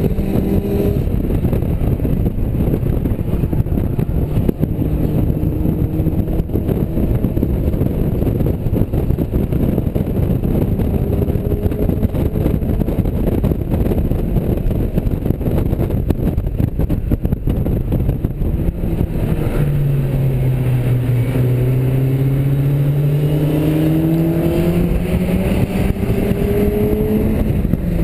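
Mazda MX-5's four-cylinder engine running hard on track, heard from inside the open cockpit under heavy wind and road noise. About two-thirds of the way through, the engine note climbs steadily as the car accelerates through a gear.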